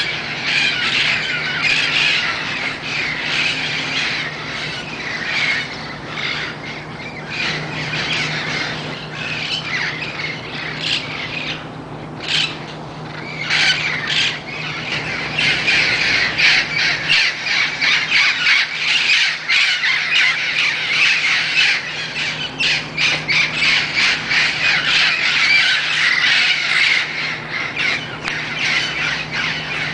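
A flock of wild parrots squawking loudly and continuously, many harsh calls overlapping at once, with a brief thinning about twelve seconds in.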